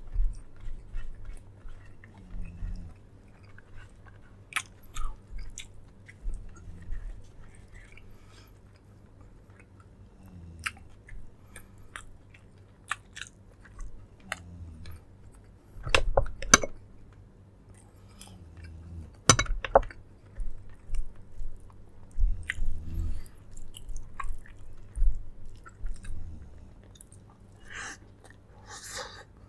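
Close-miked eating: a person chewing a mouthful of food with wet smacks and sharp mouth clicks at an irregular pace, a few louder clicks about halfway through. A short breathy noise comes near the end.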